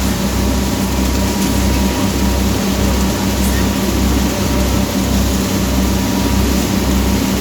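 Boat's engine running steadily, heard on board: a low throb that pulses at an even, slow beat under a steady hum.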